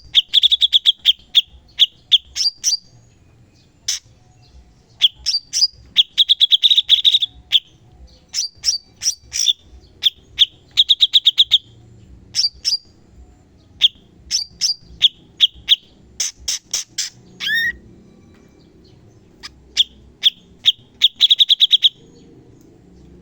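Cucak cungkok songbird singing in rapid bursts of sharp, high chipping notes, the fast 'shot' (tembakan) phrases, each burst lasting about a second with short gaps between, and one quick falling whistle near the middle.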